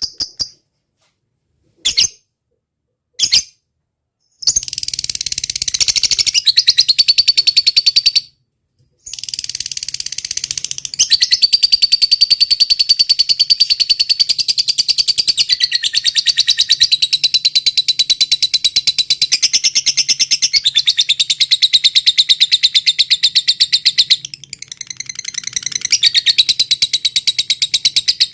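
Lovebird calling: a few short sharp chirps, then a long, very fast rattling trill that breaks off once about eight seconds in and starts again.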